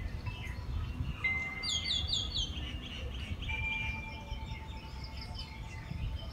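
Birds calling, with several chirps and trills, including a run of four quick downward-sweeping chirps about two seconds in, over a low rumble.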